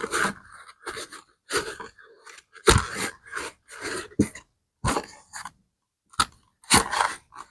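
Short scrubbing strokes on a leather bag, about ten at an irregular pace, each a fraction of a second long.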